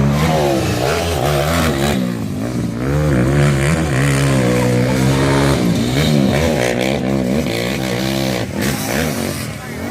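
Several quad (ATV) engines running and revving, their pitch rising and falling in overlapping waves.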